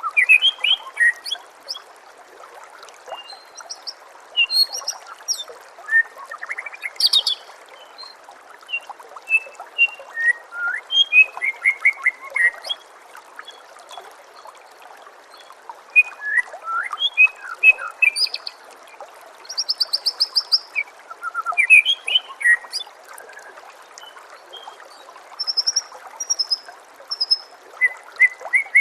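White-rumped shama (murai batu) singing a varied song of short whistles, fast trills and rattling phrases in bursts, with brief pauses between them. Beneath it runs a steady trickle of flowing water.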